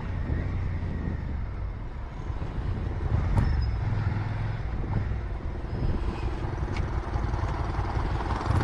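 Suzuki SV650's V-twin engine running at low revs under road and wind noise as the motorcycle slows down in town traffic.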